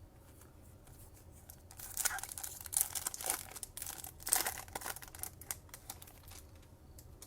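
Foil trading-card pack wrapper being torn open and crinkled, a run of crackly rustles loudest from about two to five seconds in.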